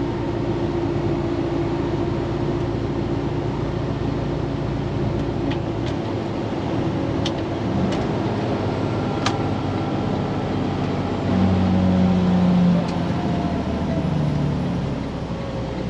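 Diesel engine of a day cab semi tractor running while the truck is driven, heard from inside the cab as a steady low drone with road noise. The engine gets louder for a couple of seconds about eleven seconds in, and a few sharp clicks sound scattered through the middle.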